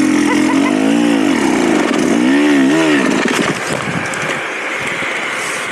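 Dirt bike engine revving: the pitch climbs and falls about a second in, again a little after two seconds, then drops back and quietens.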